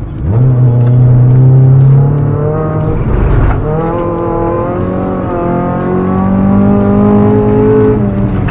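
Honda Civic V coupe's 1.5-litre four-cylinder engine, heard from inside the cabin, pulling under acceleration with its pitch rising. It changes around two to three and a half seconds in, like a gear change, then climbs again.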